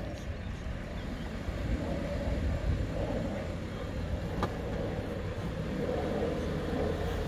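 Land Rover Defender's engine running under load as it climbs out of a muddy rut, a low rumble that gets louder about two seconds in.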